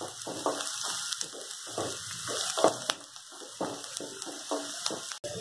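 Chopped onion and garlic sizzling in butter and oil in a kadhai, stirred with regular short scrapes about two or three times a second.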